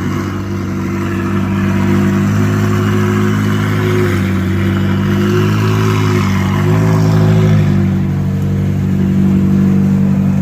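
McLaren sports car's engine running near idle, close by. Its note dips and rises slightly a few times midway through, then settles steady again.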